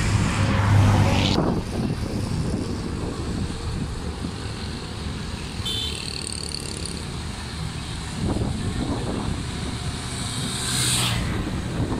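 Low rumble of a diesel-hauled passenger train drawing in to stop, with wind on the microphone. A steady hum cuts off abruptly about a second in, and a short hiss comes near the end.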